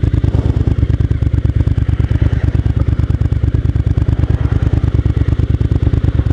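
Motorcycle engine idling, a steady, rapid low pulsing beat.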